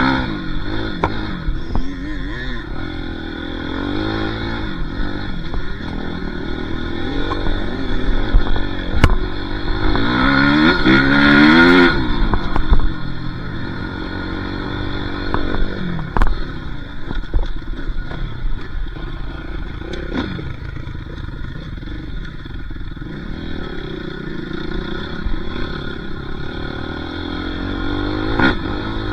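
Dirt bike engine being ridden hard, the revs rising and falling again and again through the gears, climbing highest about halfway through. Occasional knocks and rattles from the bike come through over the engine.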